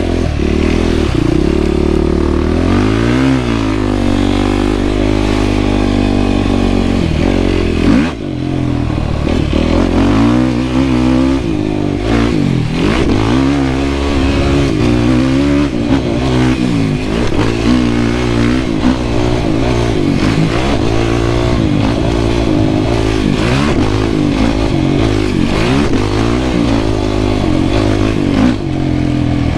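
Yamaha YFZ450R sport quad's single-cylinder four-stroke engine under hard riding, its revs climbing and dropping again and again as the throttle is worked through the gears, with a brief chop of the throttle about eight seconds in.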